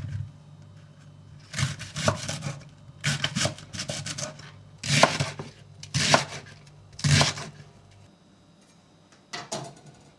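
Kitchen clatter: about six short runs of quick, sharp knocks and clinks, over a low steady hum that stops about eight seconds in.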